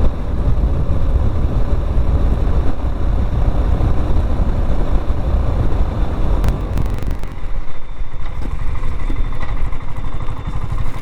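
BSA Gold Star 650's single-cylinder engine running under way, with wind noise on the microphone. The wind noise eases about seven seconds in.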